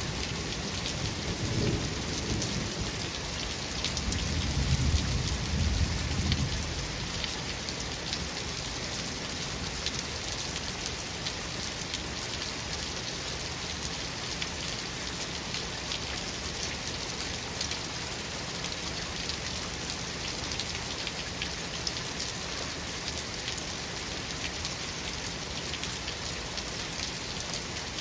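Steady rain falling, with a low roll of thunder over the first several seconds that dies away about seven seconds in, leaving only the rain.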